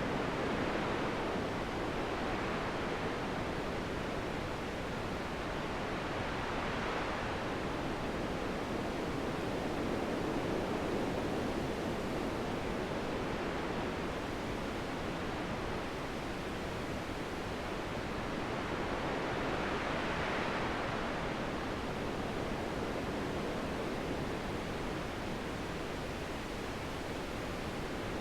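Wind blowing: a continuous rushing hiss that slowly swells and eases every several seconds.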